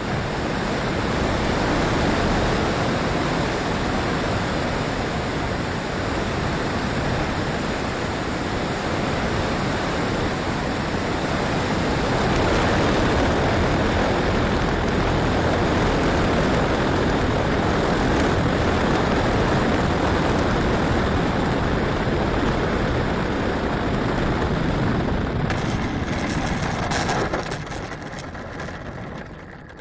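Steady rush of strong wind noise with no engine running, fading away near the end.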